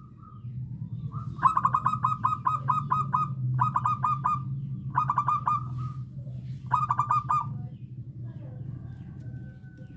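Zebra dove (perkutut) cooing in four quick staccato phrases: a first long run of about nine notes, then three shorter runs. A steady low hum runs underneath.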